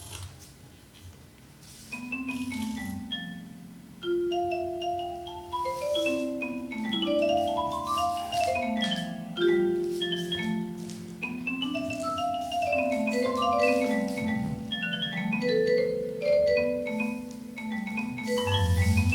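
Marimba-like mallet notes from a movement-driven sensor sound system, played in quick overlapping runs of short pitched notes that start about two seconds in; a low hum joins near the end.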